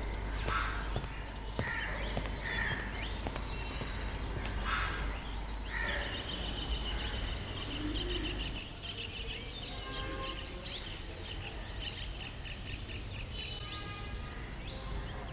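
Crows cawing several times, then smaller birds chirping and twittering, over a steady low hum of city background noise.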